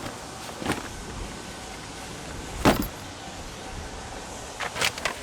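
A few sharp knocks and clatters over a steady low background rumble, the loudest about two and a half seconds in and a quick cluster near the end.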